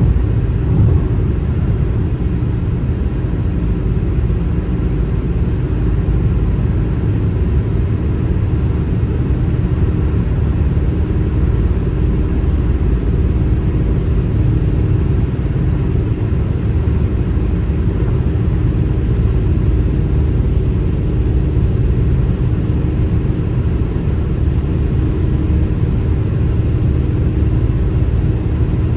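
Steady car highway road noise: a constant low rumble of tyres and engine at cruising speed, with a faint steady hum above it.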